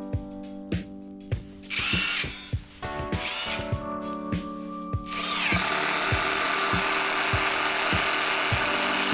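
Cordless impact driver (Parkside Performance PDSSAP 20-Li A1) triggered in two short bursts, its motor whine rising and falling, then running continuously from about five seconds in. Background music with a steady beat plays throughout.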